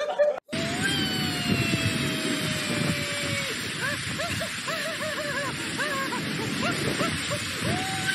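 Strong storm wind rushing steadily, with a howling whistle that slowly falls in pitch for a few seconds, then a run of short rising-and-falling cries, then the howl again near the end.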